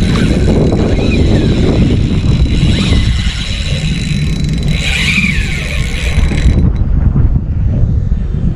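Strong wind buffeting the microphone, a heavy steady rumble. A higher, wavering hiss sits over it and cuts off about two-thirds of the way through.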